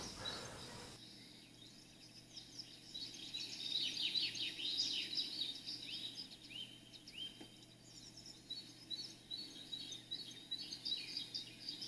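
Small birds chirping: many quick, high notes overlapping, busiest a few seconds in.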